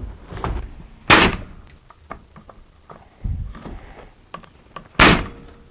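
Two loud wooden knocks about four seconds apart, with lighter taps and clicks between: lengths of 2x2 lumber being handled and fitted against the underside of wooden shelves.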